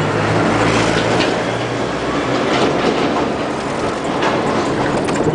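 Rush of wind and road noise from an electric golf cart coasting downhill with its motor off at about 40 miles an hour, the cart's body rattling and clicking over the road surface. A low drone runs under it for the first couple of seconds, then fades.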